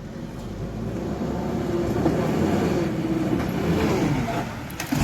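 Truck engine running, its pitch rising and falling as it is revved and eased off.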